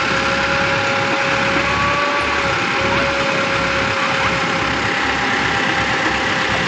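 Tractor diesel engine running steadily, with an even low throb and a steady whine over it.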